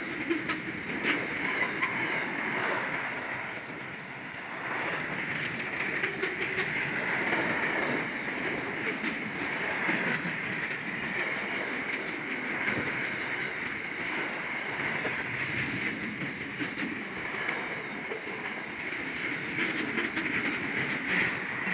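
Container wagons of a long intermodal freight train rolling past close by. The steel wheels clack over the rail joints in a steady, continuous rolling noise.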